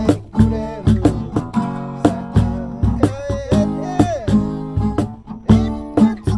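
Acoustic guitar strummed in a steady rhythm, with a voice carrying a melody over it.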